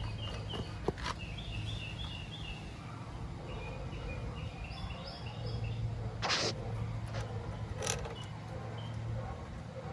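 Small birds chirping in quick runs of short, repeated high notes over a steady low hum. There are a few sharp clicks, and a brief scrape about six seconds in.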